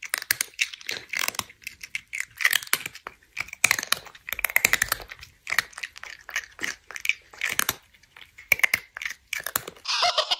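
Chewing and crunching on food: irregular bursts of crunchy bites with short pauses between them.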